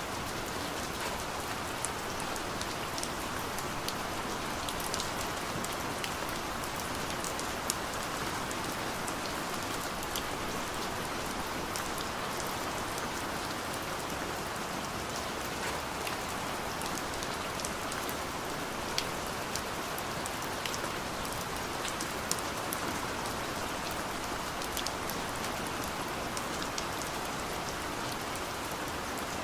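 Steady rain on a car's roof and windows heard from inside the cabin: an even hiss with scattered sharper drop taps.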